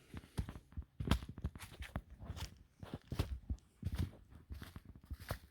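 Footsteps of people hiking along a trail, a quick irregular series of steps, about two to three a second.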